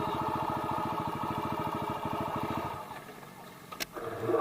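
Dirt bike engine idling with a steady, even pulse, dropping away about three seconds in. A short sharp click follows near the end.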